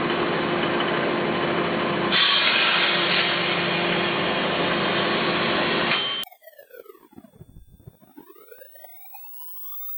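Microwave oven running with a steady hum and whir. The sound gets brighter and louder about two seconds in, then cuts off abruptly about six seconds in. A synthetic sweeping sound effect follows, several tones gliding down and then back up, swelling near the end.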